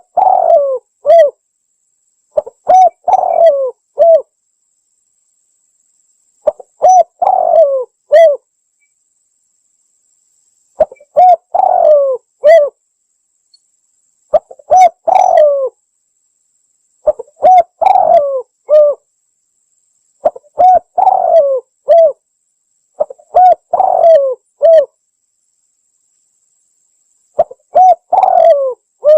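Spotted dove (tekukur) cooing, played as a lure call: phrase after phrase of several mellow coos, repeated about every three seconds, with a slightly longer pause near the end.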